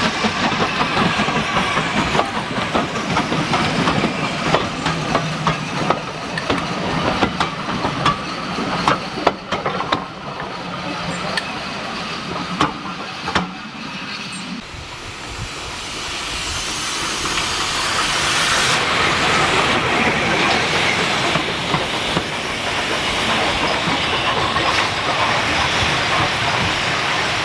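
Steam train running: a steady low drone with frequent sharp clicks and knocks for about the first half, then a hiss of steam that swells and holds through the rest.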